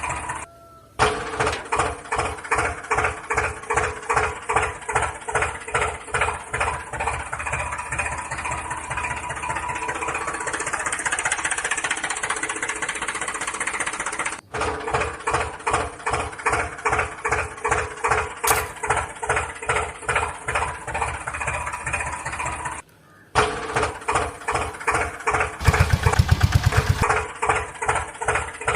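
A small engine chugging with a steady beat of about two to three pulses a second, cutting out briefly a couple of times. Near the end it turns to a louder, faster buzz for about a second.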